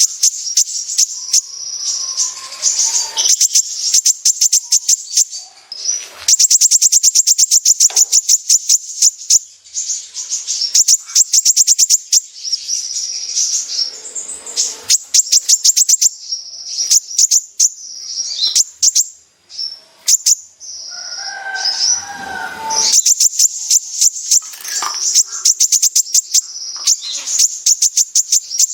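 A kolibri ninja sunbird singing a loud, high-pitched song made of long, very rapid trills of repeated notes, broken by short gaps and a few lower warbled phrases.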